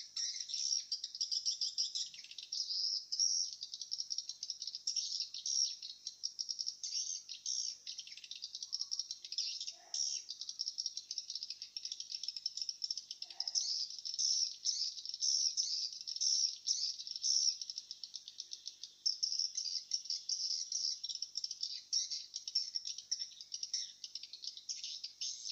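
Many swiftlets twittering together: a dense, continuous chatter of rapid high chirps and rattling clicks, the calls overlapping without a break.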